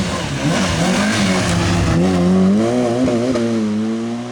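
Rally car engine running hard at high revs. Its pitch wavers up and down, then climbs steadily through the second half and holds high near the end.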